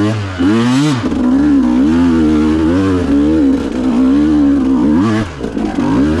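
Two-stroke enduro motorcycle engine revving under load, its pitch swinging up and down, then held high with small wavers for a few seconds. It drops off about five seconds in and is blipped once more near the end.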